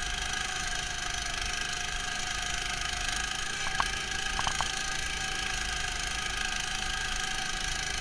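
Neva MS-1's engine running steadily on the move, muffled by the camera's protective housing, with a few short clicks or rattles a little before halfway.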